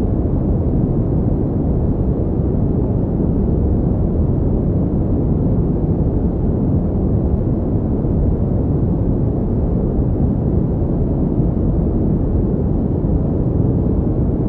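Steady pink noise: an even, deep rushing hiss that never changes, with most of its weight in the low end and little treble.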